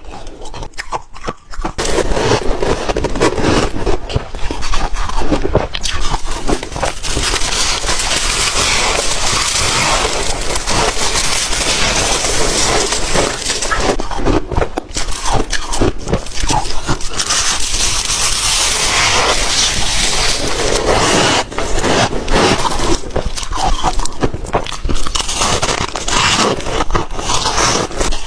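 Close-miked crunching and chewing of ice: a few sparse cracks, then from about two seconds in a dense, continuous crackle of ice breaking between the teeth.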